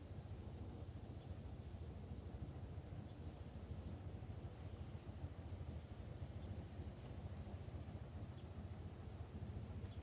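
Insects trilling in a steady, high chorus without a break, over a faint low rumble.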